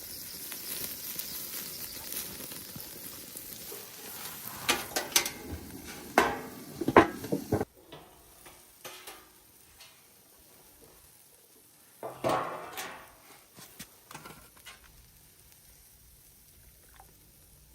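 Steak sizzling over a wood fire, with a run of sharp clicks and knocks from handling over the grill. About halfway the sizzle cuts off suddenly, leaving quieter handling sounds and one short louder burst.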